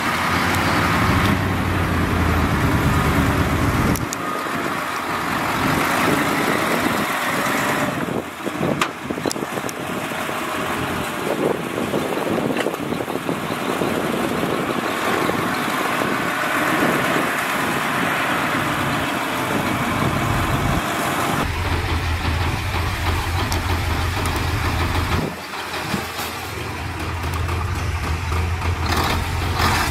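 Diesel engines of heavy earthmoving machinery running under work, changing abruptly several times as the sound jumps between scenes.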